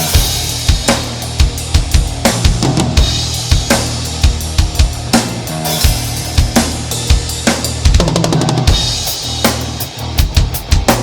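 Instrumental break in a rock song: a drum kit plays a steady beat of kick, snare and cymbal hits over a held bass line, with no singing.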